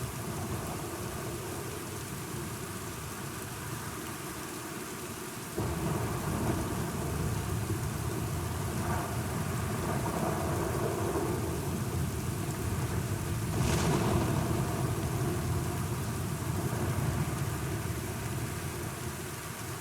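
Thunderstorm with steady rain. A low thunder rumble comes in suddenly about a third of the way in and rolls on, with one sharp crack a little past the middle.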